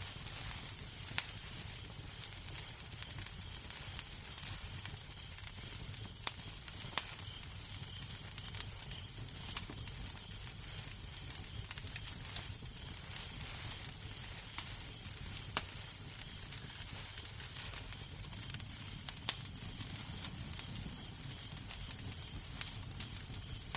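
Wood fire crackling in a fireplace: a steady hiss and low rumble with irregular sharp pops and snaps scattered throughout.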